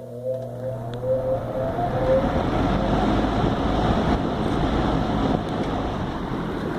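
1970s Champion box fan starting up on high speed: the motor's whine rises in pitch as the blade spins up over the first couple of seconds, then it runs steadily with a loud rush of air.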